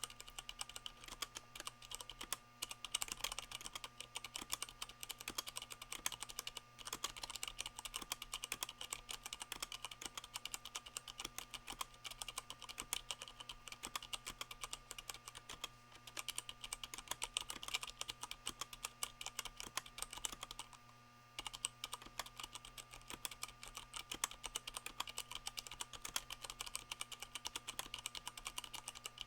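Continuous fast typing on a Leopold FC660M mechanical keyboard with Cherry MX Brown switches, O-rings damping the keycaps as they bottom out. The key presses come as a dense, irregular run of clicks, with a brief pause about 21 seconds in.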